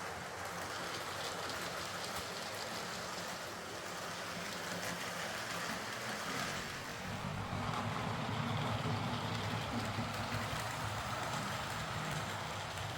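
Hornby OO-gauge Class A4 'Mallard' model locomotive running on layout track: the steady hum of its electric motor and the rattle of its wheels on the rails. The hum grows louder about seven seconds in as the locomotive comes nearer.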